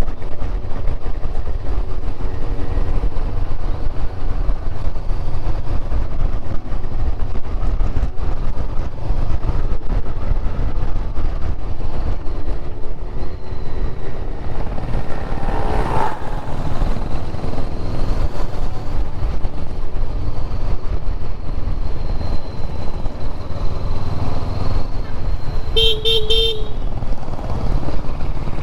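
Motorcycle riding on the road: heavy wind noise on the microphone over the engine's low rumble. A short horn toot sounds near the end.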